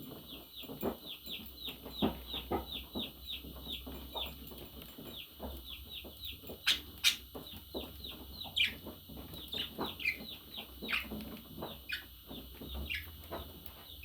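Budgerigar chirping: a quick run of short, falling chirps, about three a second, then louder, sharper calls from about halfway through.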